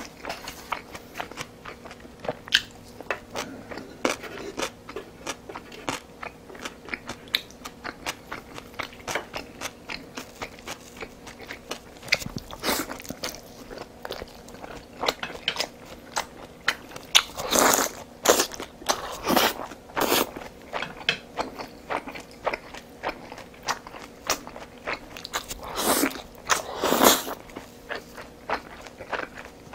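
Close-miked eating: a person chewing and biting food, a dense run of wet mouth clicks and smacks, with louder clusters of bites about two-thirds of the way through and again near the end.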